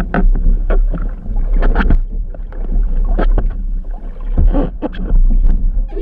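Outrigger canoe under way: paddles splashing into the water in repeated, uneven strokes over rushing water, with a loud low rumble of wind on the microphone.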